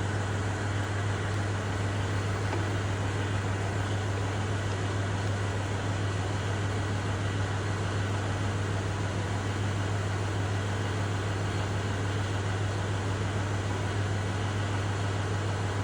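Kubota tractor's diesel engine idling, a steady low hum with no change in speed.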